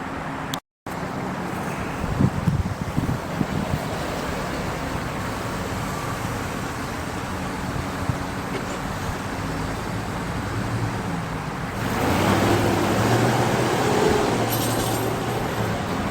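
Steady vehicle noise with a low engine hum, cut off by a brief dropout just under a second in, then growing louder about twelve seconds in.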